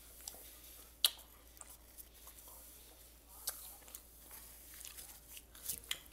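A person chewing food close to the microphone, with a few sharp mouth clicks or smacks. The loudest is about a second in, with more around three and a half seconds and near the end.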